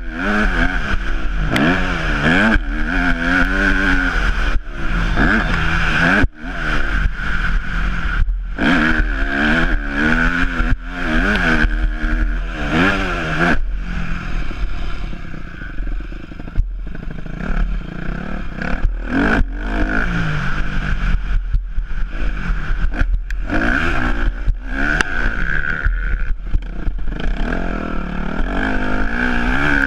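Yamaha YZ250F four-stroke single-cylinder motocross engine being ridden hard, its pitch climbing and falling over and over as the rider opens and shuts the throttle, with short breaks when the throttle is closed.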